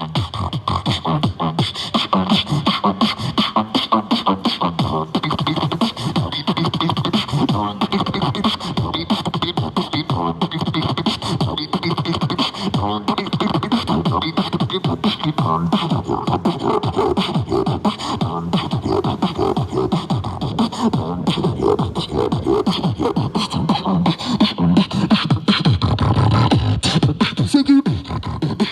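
Beatboxing: a continuous fast stream of mouth-made drum hits, clicks and hisses, with a deep bass hum swelling in near the end.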